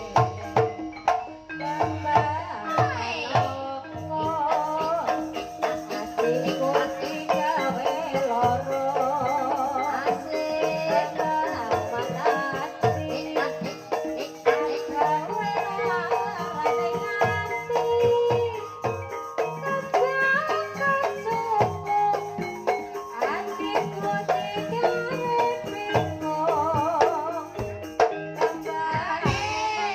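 Banyumasan gamelan ensemble music: a continuous melody on tuned percussion over steady hand-drum strokes, with a wavering high melody line from time to time.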